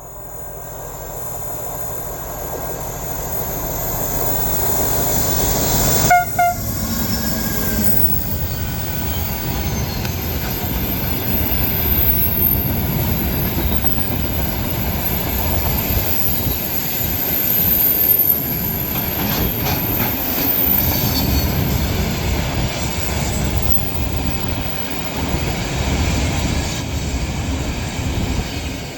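A train approaching and passing, its rumble growing over the first few seconds. A short horn blast sounds about six seconds in, then a steady rolling rumble that fades near the end.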